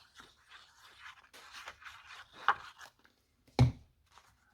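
Paper and card being handled on a craft table: soft rustling and sliding, then a single sharp knock on the tabletop about three and a half seconds in, the loudest sound.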